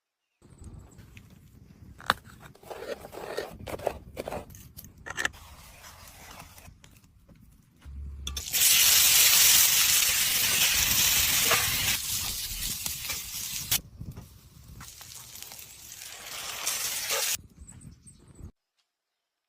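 Outdoor cooking sounds: scattered clicks and scrapes of handling, then a loud hiss starting suddenly about eight seconds in and lasting about five seconds. It eases off, swells again, and cuts off abruptly near the end.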